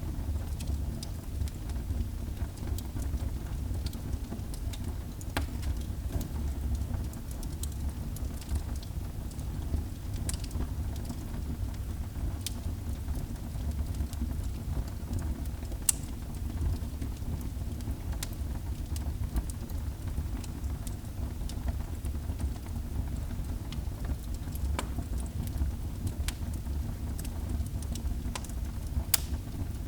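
Wood fire burning in a fireplace: a steady low rumble of the flames with scattered crackles and pops, a few louder snaps about halfway through and near the end.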